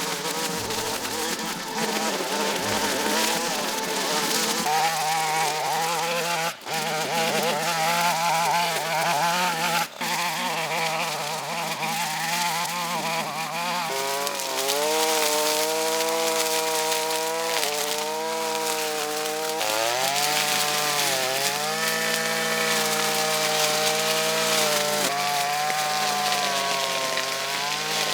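Small two-stroke engine, such as a brush cutter's or chainsaw's, running at high speed with a buzzing note. Its pitch dips and recovers several times as the throttle eases or the tool takes load. The sound cuts out briefly twice in the first ten seconds.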